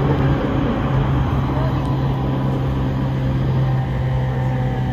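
Cabin sound of a moving electric train: a steady low hum over the rumble of the wheels on the rails.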